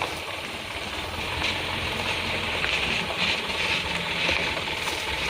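Isuzu Elf dump truck's engine running steadily, with a constant hiss over the low rumble.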